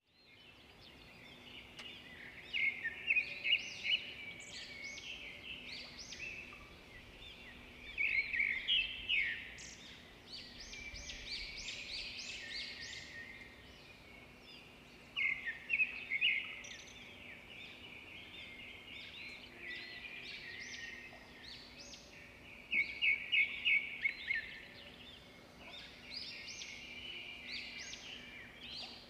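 Pet budgies chirping continuously, a stream of short chirps with louder bursts of rapid chirping every several seconds.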